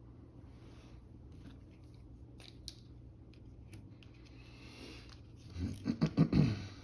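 Pencil sketching on paper: faint scratching and small ticks, then a quick run of louder, rougher strokes about five and a half seconds in.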